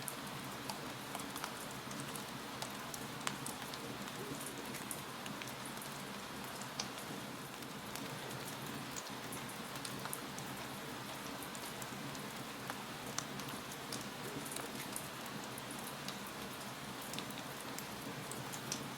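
Wood fire crackling: a steady hiss with many small irregular pops and snaps, a few of them sharper.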